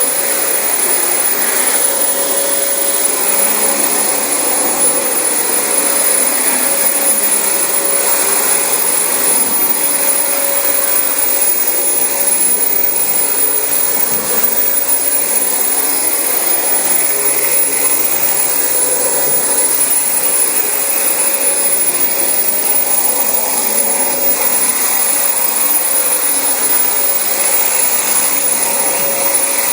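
Dyson DC25 bagless upright vacuum cleaner running steadily over thick carpet: a constant motor rush with a steady high whine.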